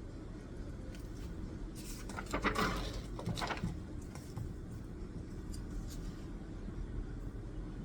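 Brief rustling and clicking of things handled at a study desk, starting about two seconds in and lasting about a second and a half, over a steady low background rumble.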